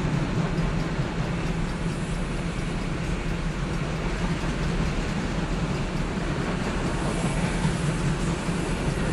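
CSX grain train rolling along the track: a steady rumble of freight cars and a low steady drone, with no horn or breaks.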